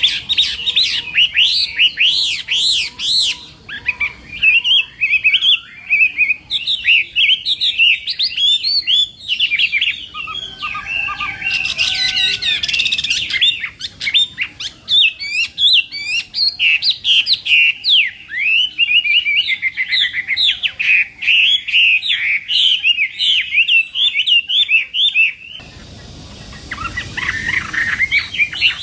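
Chinese hwamei singing a long, rapid, varied song of quick sweeping whistled and chattering notes. It breaks off for about two seconds near the end, leaving only a hiss, then starts again.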